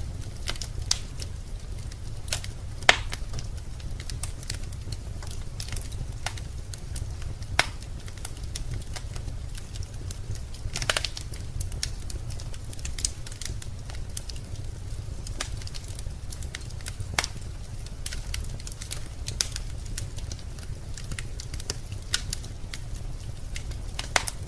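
Wood fire burning in a fireplace: irregular crackles and sharp pops, a few louder snaps among them, over a steady low rumble.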